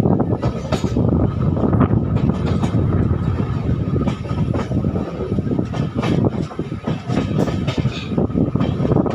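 Express passenger train running along the track, heard from aboard: continuous loud rumble of the coaches with frequent irregular clatter and knocks from the wheels over the rails, and a faint steady whine above it.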